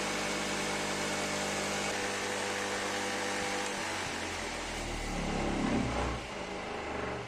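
Electric power tool motor running with a steady hum. About four seconds in its sound turns lower and rougher, grows louder, then fades away near the end.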